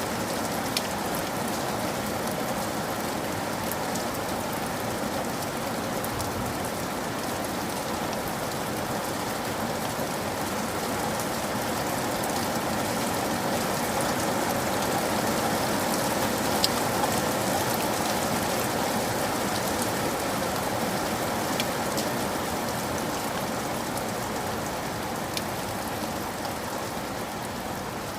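Steady rain falling, with a few sharp drop clicks standing out; it swells a little around the middle.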